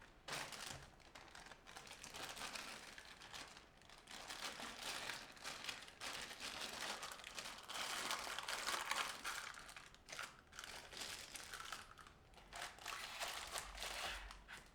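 Crinkling and rustling of something being handled, coming and going unevenly and stopping near the end.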